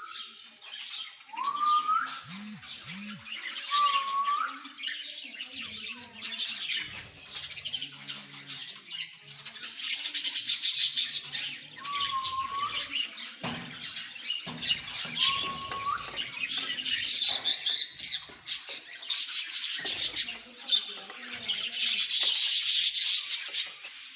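A parrot calling: a few short whistles that rise and curl over, several seconds apart, between stretches of loud, rapid, raspy chattering and squawking.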